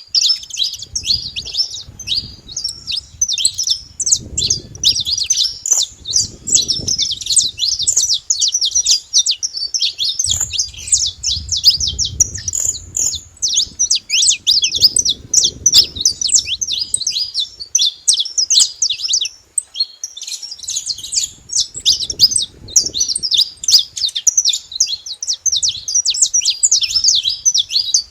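A flock of saffron finches chirping and calling together, many short high chirps overlapping without a break. A low rumble rises and fades several times underneath.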